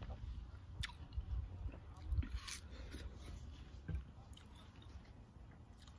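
Chewing and mouth sounds of a person eating watermelon, with a few short clicks and knocks scattered through.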